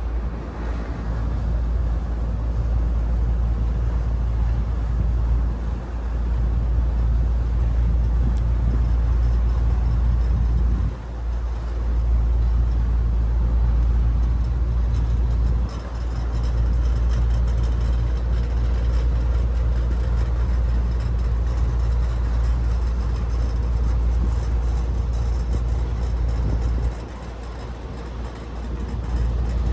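Steady low rumble of a river tour boat's engine under way, with wind buffeting the microphone; it dips briefly twice and softens near the end.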